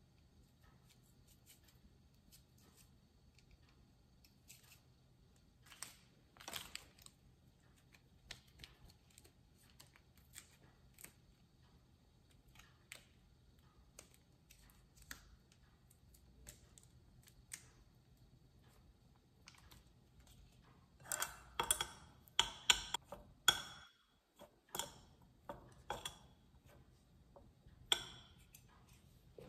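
Scattered light clicks and crinkles of instant-noodle preparation: seasoning sachets handled and torn open over a ceramic bowl, with a dense burst of crinkling and tearing about three-quarters of the way through. Near the end, chopsticks click against the bowl as the noodles are mixed.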